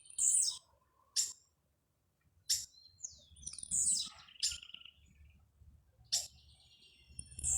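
Birds calling and chirping: short high calls come one after another with gaps, some sweeping downward, among brief sharp notes.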